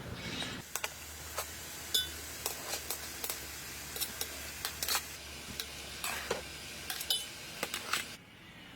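Metal cooking utensils clinking and scraping against a pot or pan: a dozen or so sharp, irregular clinks over a steady hiss. It all stops abruptly near the end.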